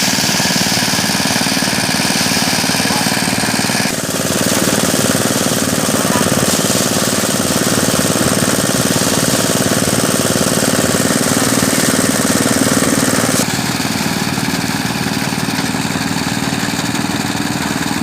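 Mini rice threshing machine running, a loud, steady engine-driven drone with a rapid pulse; its tone shifts abruptly a few seconds in and again past the middle.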